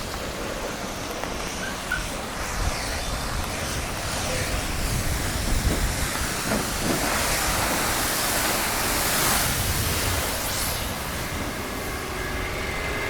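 Wet-street traffic noise: a steady hiss of tyres on wet road over a low rumble, with one vehicle swelling louder as it passes about eight to ten seconds in.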